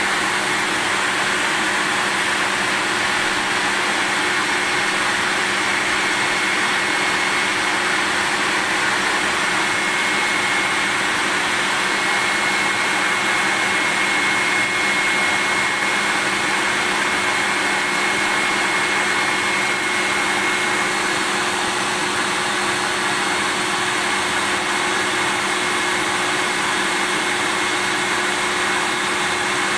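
Vacuum cleaner motor running continuously, an even rushing noise with a thin steady high whine over it.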